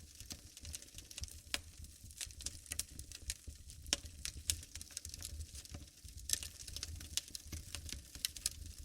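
Wood fire in a fireplace crackling: dense irregular snaps and pops, a few sharper ones standing out, over a low rumble of the flames.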